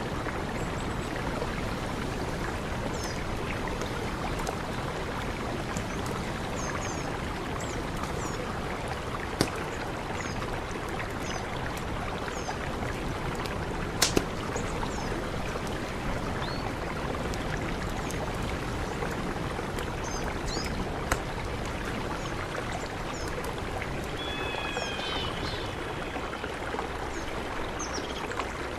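Mountain river rushing steadily, with short high bird chirps scattered throughout and a few sharp clicks. A longer, pitched bird call comes near the end.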